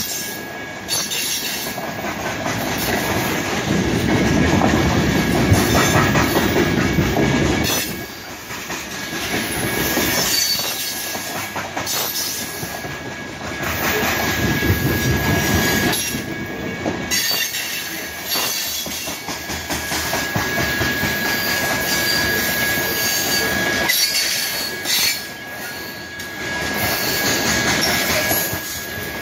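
Freight train of covered hopper cars rolling past: steel wheels rumbling and clattering on the rails, swelling and dipping as each car goes by, with a steady high wheel squeal over it.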